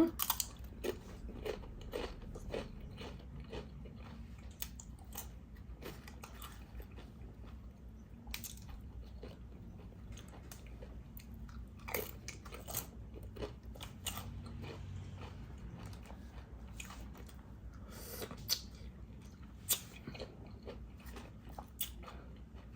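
A person chewing and biting a tuna sub sandwich close to the microphone, with irregular crisp crunches scattered throughout.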